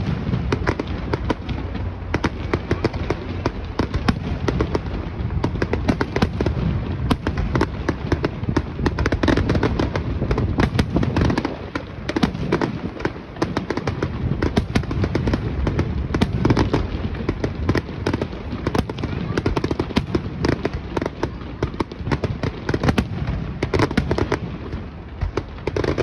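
Fireworks display: a dense, unbroken run of bangs and crackling shells, many to the second, over a low rumble.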